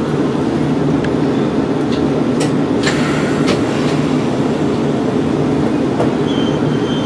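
Nankai electric commuter train running along the track, heard from inside the front cab: a steady rumble of wheels and running gear. A few sharp clicks come about two to three and a half seconds in, and a faint high tone near the end.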